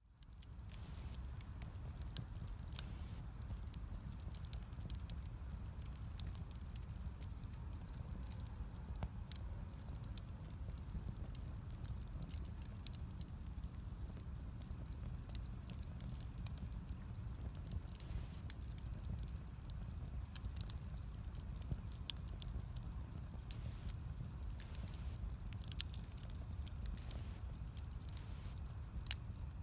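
Wood bonfire burning, crackling with irregular sharp pops and snaps over a low steady rumble.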